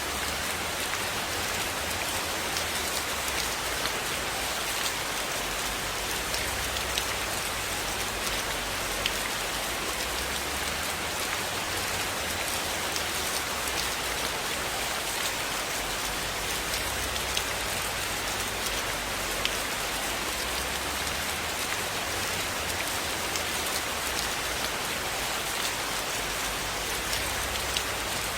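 Steady, even rainfall pattering on a surface, with scattered faint clicks through it.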